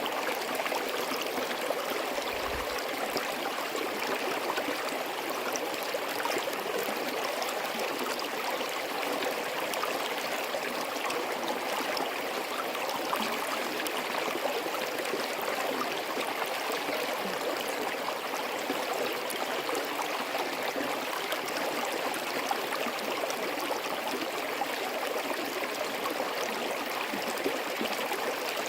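Forest stream flowing steadily, a continuous rush and trickle of water.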